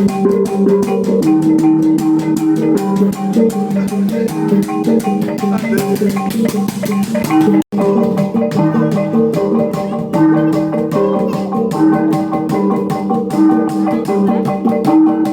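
Ensemble of gongs playing a fast, continuous rhythmic pattern of repeated strikes over ringing, sustained pitches. The sound drops out for an instant about halfway through.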